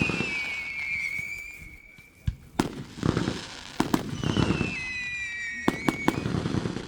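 Consumer fireworks going off: a string of sharp bangs with crackling between them. Twice a high whistle slides down in pitch, once at the start and again from about four seconds in.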